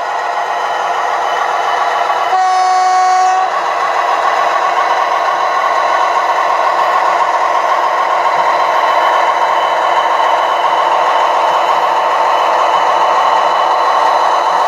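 Sound-fitted OO-scale model locomotive playing a steady engine sound through its small onboard speaker, with a single horn blast of about a second a little over two seconds in.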